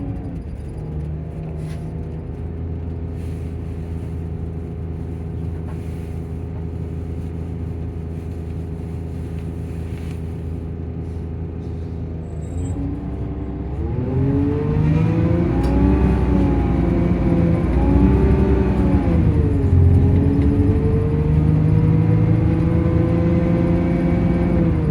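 Engine and cooling fan of a Volvo coach with Plaxton bodywork running steadily. About halfway through it gets louder, and the pitch rises and wavers for several seconds before settling into a steady, slowly rising note.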